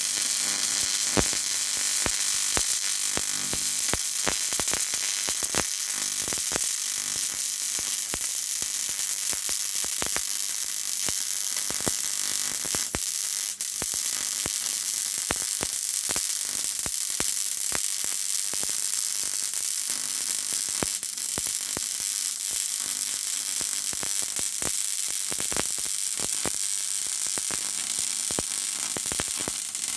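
Electric arc welding on steel plate: a steady crackling sizzle with irregular pops and spits, which dips briefly about halfway through.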